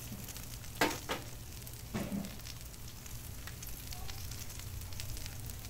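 Bacon and sausage patties sizzling on a Blackstone 22-inch flat-top gas griddle with both burners turned down to low: a steady frying hiss, with a couple of brief sharper crackles about a second in.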